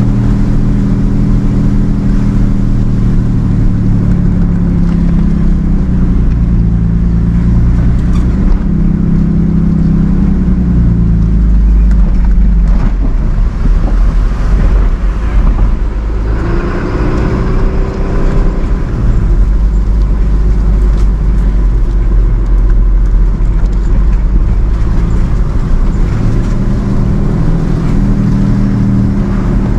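A vehicle's engine running steadily under a heavy low road rumble while driving. For several seconds mid-way the engine note fades into the rumble, then it comes back.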